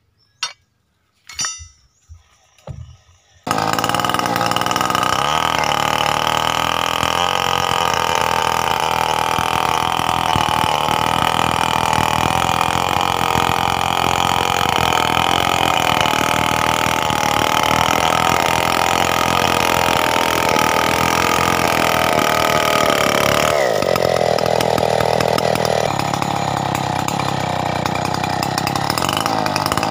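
A few sharp knocks, then a Stihl 070's big two-stroke chainsaw engine running at high revs, as in milling a coconut log. About 23 s in the revs fall and the saw runs on at a lower pitch.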